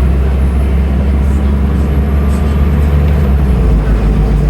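Scania N310UA bus's diesel engine running while the bus is under way: a steady low drone whose pitch changes about three and a half seconds in.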